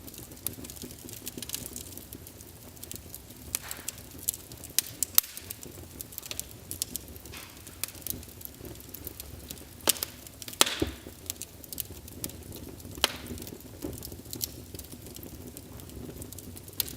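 Wood fire burning in a fireplace: a steady low rumble with frequent sharp crackles and pops, a few louder snaps among them.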